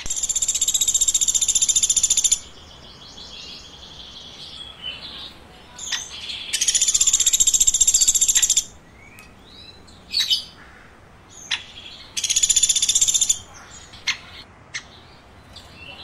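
A bird calling in three loud bursts of a very rapid, high, buzzy trill, about two seconds, two seconds and one second long, with a few short high chirps and ticks in the gaps between.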